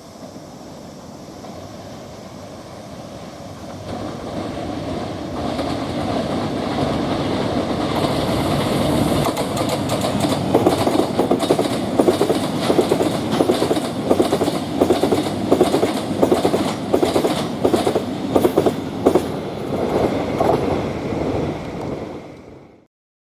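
Freight train hauled by a DF200 diesel-electric locomotive approaching and passing, its rumble growing steadily louder. From about nine seconds in, the wagon wheels set up a rhythmic clickety-clack over the rail joints, and the sound cuts off abruptly near the end.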